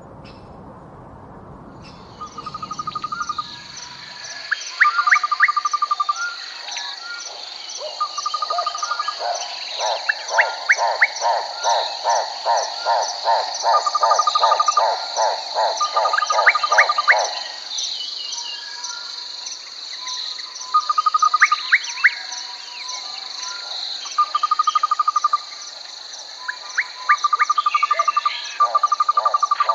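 Chorus of frogs and insects: a steady high insect trill, short repeated frog trills, and a long run of rapid pulsed croaks between about ten and seventeen seconds in. The first two seconds hold only a low rushing noise before the chorus cuts in.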